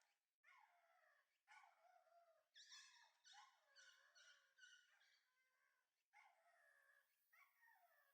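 Shiba inu puppy whining: a faint run of about ten high cries, one after another, each falling in pitch.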